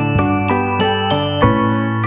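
Soft background music: a gentle electric-piano melody of evenly spaced notes, about three a second, over held bass notes.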